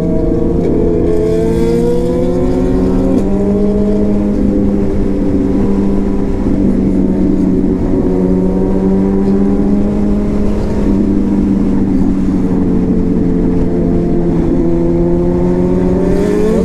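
Motorcycle engine running at a steady high road speed, its pitch holding nearly constant with a slight rise near the end, over heavy wind rush.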